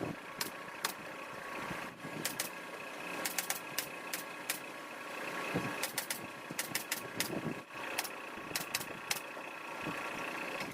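Steady machine hum, like an air compressor running, under a series of sharp clicks that come singly and in quick runs of three or four: a pneumatic upholstery staple gun firing while fabric is fixed to the sofa frame.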